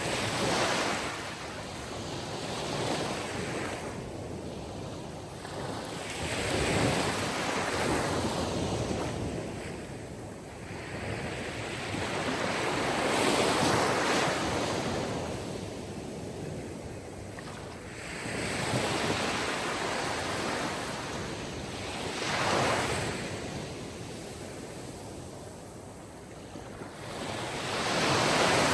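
Sea surf: waves washing in one after another, the rush of water swelling and fading every three to five seconds.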